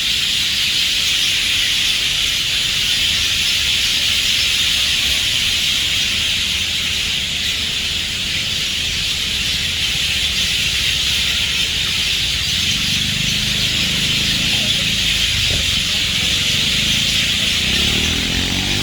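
Steady, high-pitched shrill chorus of wildlife in trees, an even unbroken drone, over a low rumble.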